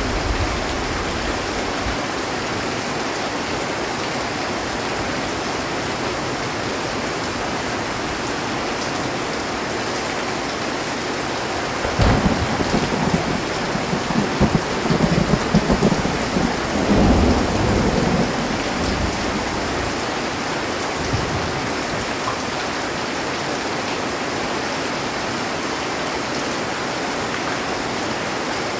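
Heavy rain falling steadily on a metal roof. About twelve seconds in, a sharp thunderclap cracks and then rumbles on for around six seconds, the loudest sound here; a low rumble of thunder also dies away in the first two seconds.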